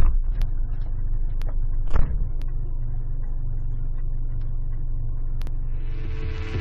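Car engine and road rumble heard from inside the car's cabin, steady and low. A sharp thump comes at the start and another about two seconds in, with a few faint clicks between.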